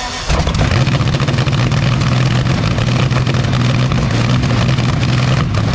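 Rolls-Royce Meteor V12 engine firing up about a third of a second in and running steadily and loudly, with a dense even beat of its firing strokes.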